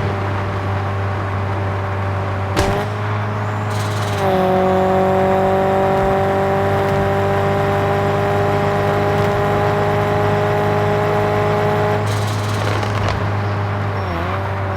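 Straight-piped VW Golf 7 exhaust idling steadily with a deep drone. Its pitch dips and settles briefly a couple of times, and there are a few short knocks.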